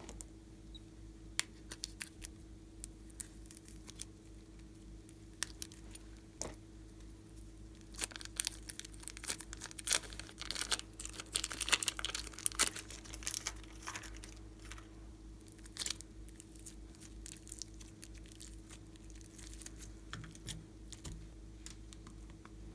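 Slime being worked by hand: quick sticky clicks and crackles, densest and loudest around the middle, over a steady faint hum.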